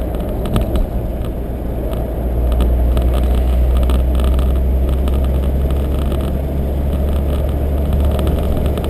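Car driving, heard from inside the cabin: a steady low rumble of engine and road noise, a little louder from about two seconds in.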